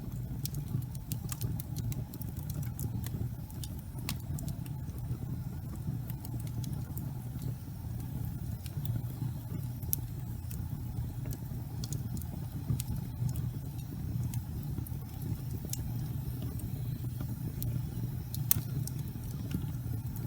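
Fireplace fire burning: a steady low rumble of flame with scattered sharp crackles and pops, one louder pop near the end.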